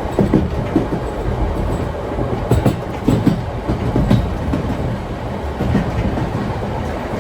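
Vintage railway carriage of a heritage steam train rolling along the track: a steady low rumble with irregular wheel-on-rail knocks and clickety-clack, and a few sharper clicks about two and a half and four seconds in.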